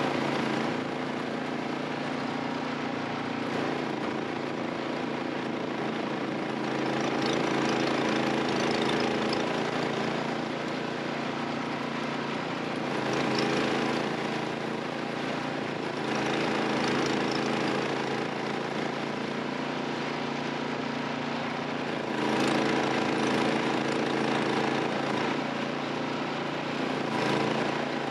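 Vehicle engine running steadily, its sound swelling louder and easing off again every few seconds.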